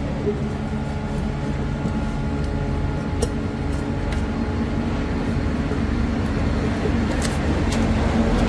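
A steady mechanical hum with a low rumble and a few light clicks, getting slightly louder near the end.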